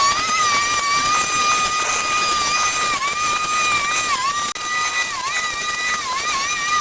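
A small motor whining steadily at a high pitch, its pitch dipping briefly several times in the second half as it takes load.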